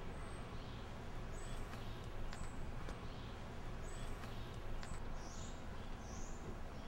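Small birds chirping: a series of short high chirps at irregular intervals over steady low background noise.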